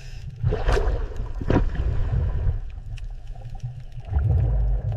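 Muffled underwater rumble with gurgling bubbles from a scuba diver's exhalation, two short bubble bursts in the first second and a half, and the rumble swelling louder near the end.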